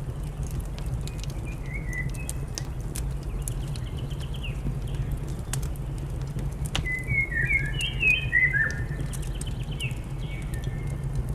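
Small birds chirping and twittering, busiest from about seven to nine seconds in, over a crackling wood fire with scattered sharp pops and a steady low rumble.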